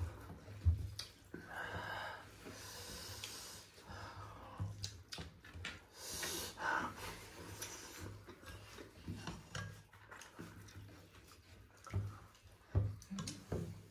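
Close-up eating sounds: chewing and lip smacks with scattered small clicks, and breathy exhales and sniffs a couple of times.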